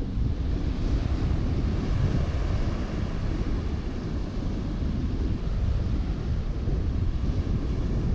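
Wind buffeting the microphone, a steady low rumble over the noise of the sea.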